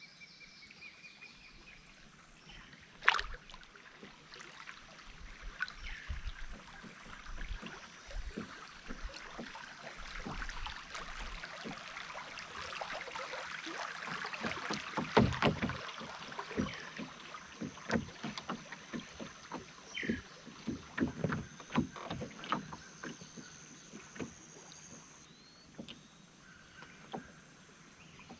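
Canoe being paddled: water splashing and dripping off the paddle, with many sharp knocks and clicks. The splashing swells in the middle and eases off toward the end.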